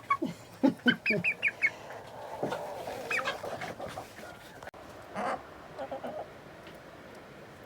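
Hens clucking and calling in short bursts, busiest in the first few seconds and tailing off near the end.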